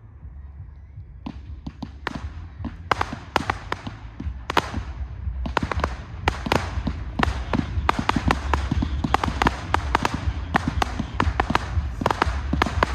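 Fireworks going off in a rapid, irregular series of sharp bangs and crackles. They start about a second in and grow denser, several a second by the end, with a steady low rumble underneath.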